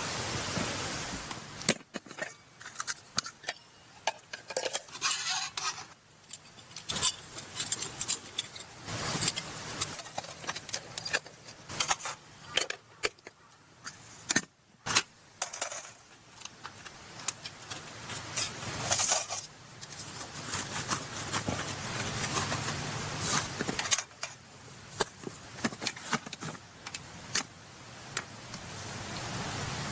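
Irregular light metallic clinks, rattles and knocks of camping gear being handled, starting after a couple of seconds of steady hiss.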